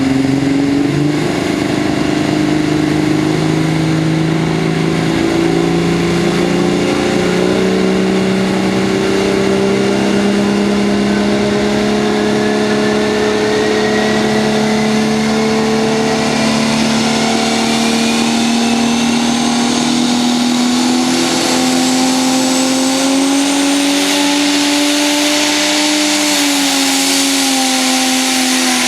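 A diesel 4x4 pickup engine running hard under heavy load on a pull. Its revs climb slowly and steadily while a high whine rises with it. Near the end it backs off sharply as the run ends.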